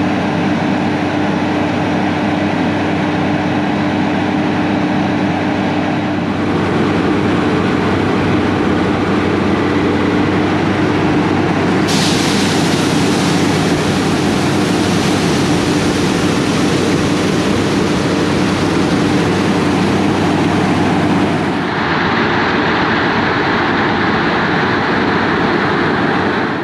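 Heavy harvest machinery running steadily, a continuous loud machine rumble. Its character changes abruptly three times, as the shots change, before a quick fade-out at the end.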